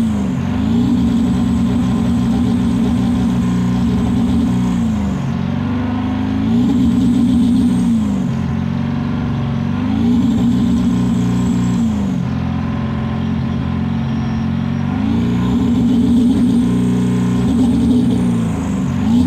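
Ford 7.3 L Power Stroke V8 turbodiesel run hard, its pitch climbing and dropping back about four or five times, like repeated pulls under throttle. The owner says the engine misfires and smokes blue when floored.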